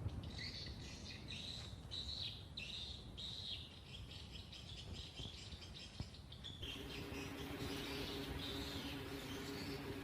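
Birds chirping repeatedly in short calls, with a steady low hum joining about two-thirds of the way through.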